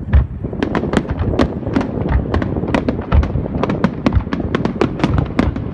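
Aerial fireworks display: a dense, rapid string of sharp cracks and bangs, many a second, over low booming explosions.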